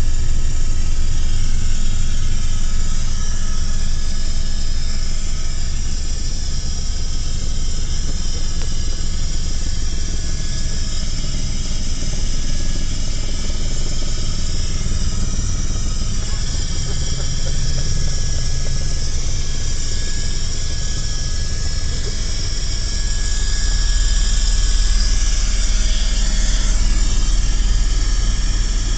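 Helicopter in flight heard from inside the cabin: a steady low drone of rotor and engine with a high turbine whine above it. The low drone swells slightly about three quarters of the way through.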